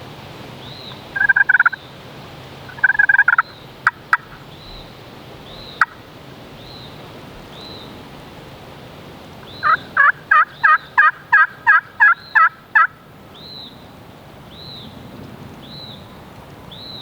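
Hen turkey yelps on a hunter's turkey call, made slow and modest to sound like a hen feeding along: two short calls and a few soft clicks, then a run of about ten evenly spaced yelps, roughly three a second. A faint high chirp repeats about once a second behind it.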